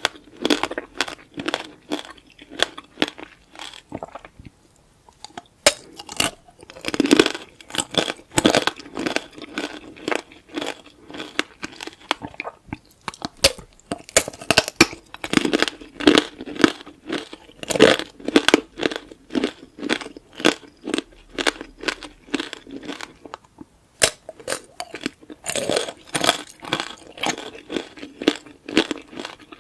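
Close-miked crunching and chewing of tanghulu: the brittle hardened-sugar shell cracks into many sharp crackles as it is bitten and chewed along with the fruit inside. The crunching comes in dense runs, with a few short pauses.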